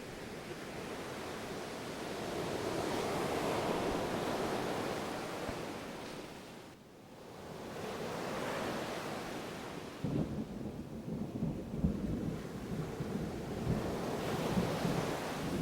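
Ocean waves surging in and drawing back, the wash swelling and fading twice. About two-thirds of the way through, a low, uneven rumble of distant thunder comes in under the surf.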